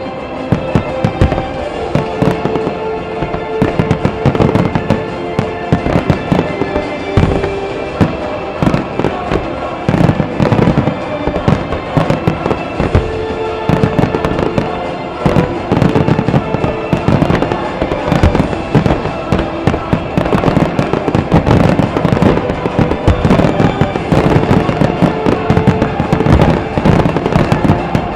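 A rapid, continuous barrage of aerial firework shells bursting and crackling: the finale volley of a music-synchronised display. It grows denser in the second half, over music from the show's sound system with long held notes.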